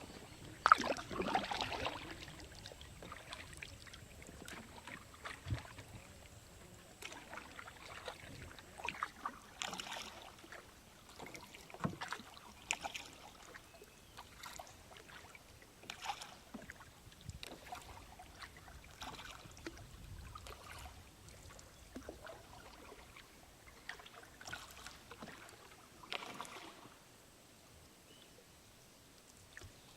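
Kayak paddles dipping and splashing in calm sea water, irregular strokes and drips every second or two, loudest about a second in and dying away near the end.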